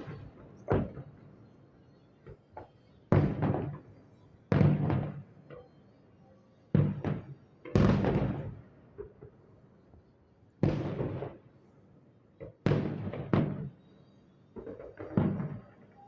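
Fireworks shells bursting: a series of about ten deep booms at uneven intervals, each trailing off in a short rumble.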